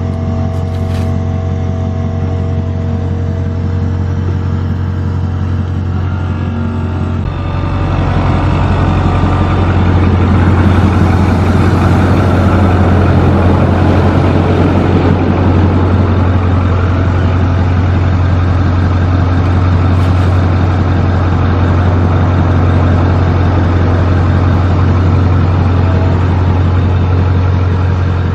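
A motor vehicle engine running close by, steady at first, then louder and heavier about seven seconds in, as if put under more throttle, and holding there.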